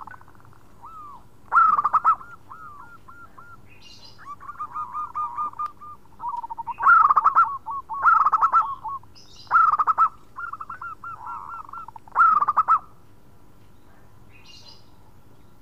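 Zebra dove (perkutut) cooing in runs of quick staccato notes, with louder phrases coming every second or two and softer trilled coos between them. It falls quiet for the last couple of seconds.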